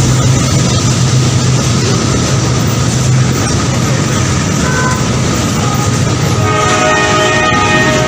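Train running with a loud, dense rumble and a steady low hum that fades out a little over three seconds in. About six and a half seconds in, a multi-tone train horn begins sounding and holds.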